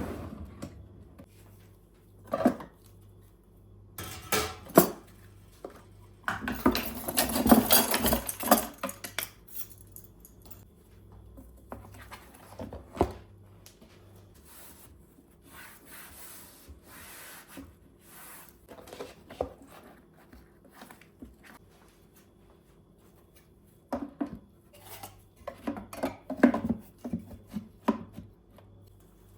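Household objects being handled during cleaning: scattered knocks and clatter, with a dense stretch of rubbing noise about six to nine seconds in and another cluster of knocks near the end.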